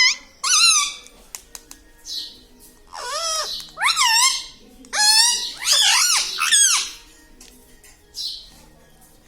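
A pet talking parrot calling: a few short high squawks, then a run of longer, louder swooping calls in the middle, and one short call near the end.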